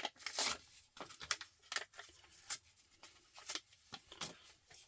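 Irregular clicks, taps and rustles as laptop parts are handled by hand, with a few sharper knocks of the metal hard-drive casing among them.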